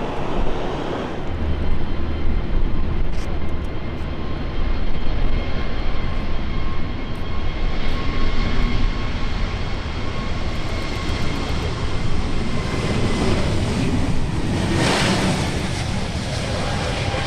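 Jet airliner's engines running, a steady loud rumble with a thin whine, swelling into a brief rush of noise about fifteen seconds in.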